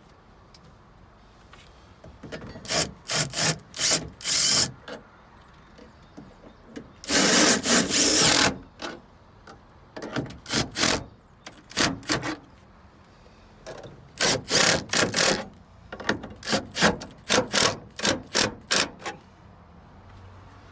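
Hand-tool work fastening the air conditioner's mounting bolts: several groups of quick rasping strokes, about four or five a second, with a longer continuous run about seven seconds in.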